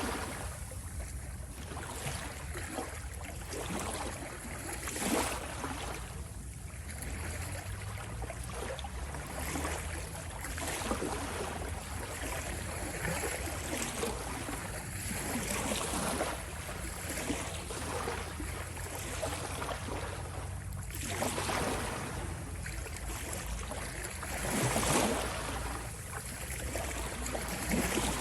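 Ocean waves washing in: a steady low rumble of water with swells and splashes rising every few seconds.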